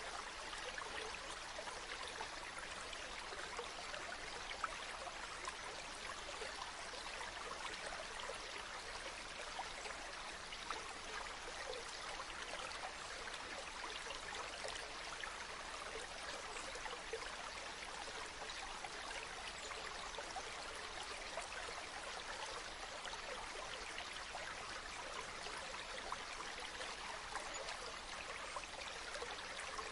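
Water flowing steadily in a stream, an even splashing rush with small flickers of trickle.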